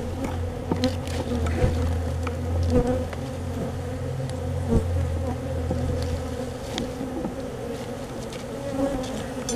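A crowd of honeybees buzzing steadily close by, stirred up as their colony is opened and the comb cut out, with scattered light knocks and clicks from handling. The deepest part of the hum drops away about two-thirds of the way through.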